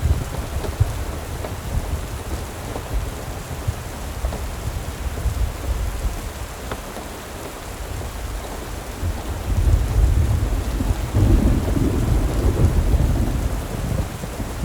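Steady rain with a deep rolling rumble of thunder that swells about ten seconds in.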